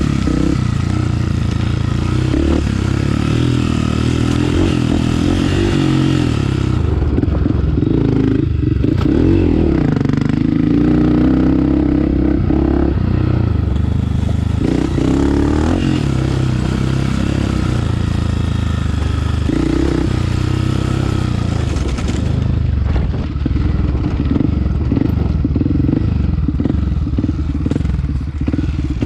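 Honda CRF250F dirt bike's single-cylinder four-stroke engine running hard on a trail, the revs rising and falling over and over as the throttle is worked, with clattering from the bike over rough ground.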